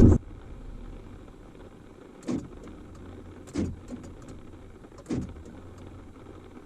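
A loud low rumble cuts off suddenly at the start. Then, over faint background noise, come three short knocks about a second and a half apart.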